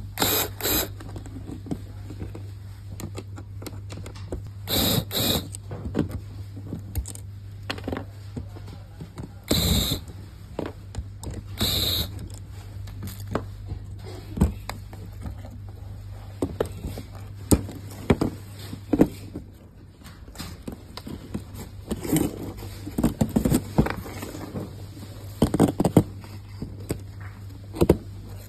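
Hands working on a ceiling fan's LED light fitting: scattered clicks, knocks and scrapes of parts being handled, over a steady low hum.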